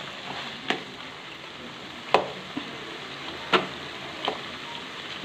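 Chicken curry sizzling in a metal wok in oil that has separated from the half-cooked chicken, while a spatula stirs it. The spatula knocks and scrapes against the pan about four times, loudest about two seconds in.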